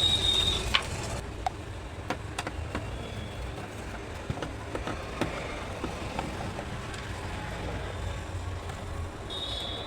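Scattered light clicks and taps of tools and plastic as the back cover of an LED TV is unscrewed and taken off, over a steady low rumble. A short high tone sounds near the start and again near the end.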